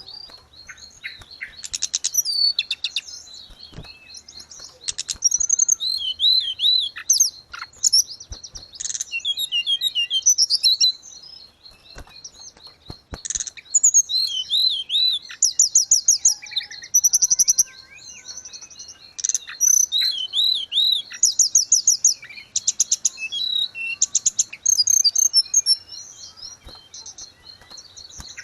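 Tledekan gunung songbird singing a fast, varied song of high chirps, quick up-and-down whistled notes and trills in bursts with short pauses, over a steady faint high trill.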